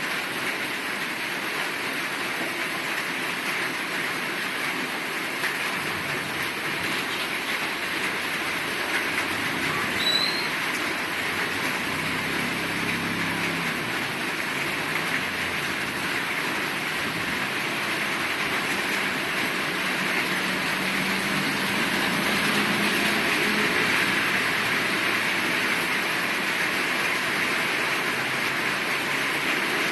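Heavy rain falling steadily, a dense even hiss. A faint low hum comes and goes twice under it.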